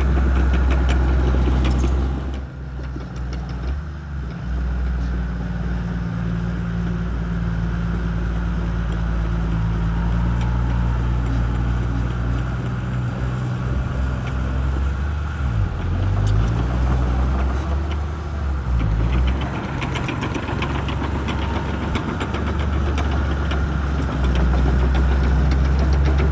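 Shantui crawler bulldozer's diesel engine running as it works, with the pitch and level shifting as the load changes: a dip a couple of seconds in, wavering around the middle, and louder again near the end.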